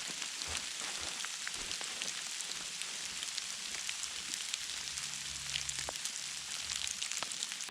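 Light wet precipitation pattering in the woods: a steady fine hiss dotted with many small ticks.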